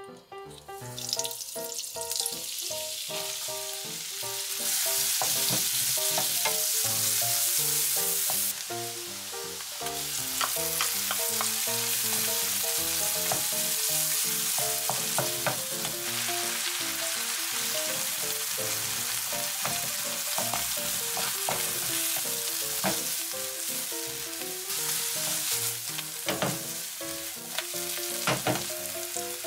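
Margarine and cooking oil sizzling in a hot nonstick frying pan, loudest a few seconds in, then kimchi and green onion stir-frying with a spatula scraping and tapping against the pan.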